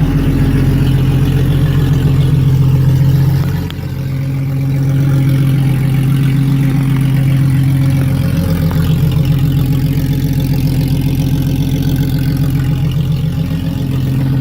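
1994 Jeep Cherokee XJ engine running with no exhaust fitted, idling steadily after a cold start; the note dips briefly about four seconds in, then settles again.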